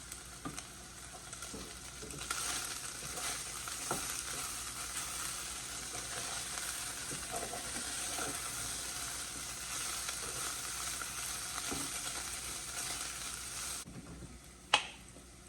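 Chicken pieces frying in oil in a pan: a steady sizzle with small scrapes and clicks of stirring. The sizzle drops off suddenly near the end, followed by a single sharp click.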